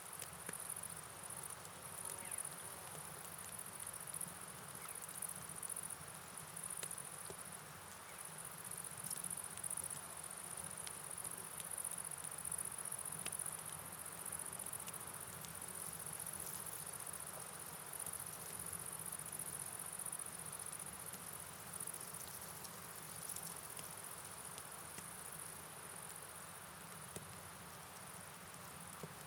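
A steady, high-pitched chorus of night insects, cricket-like, over an even hiss of rainfall and a flowing river.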